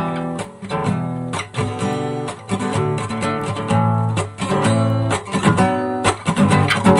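Acoustic guitar strumming chords in a steady rhythm: the instrumental intro of a song, before the vocals come in.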